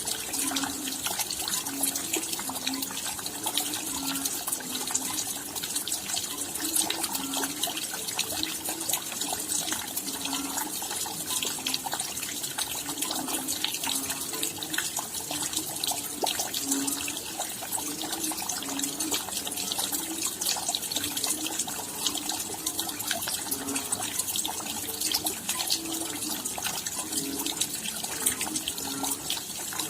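Steady rain: a dense, even patter of drops, with irregular lower-pitched plops of drops landing mixed in.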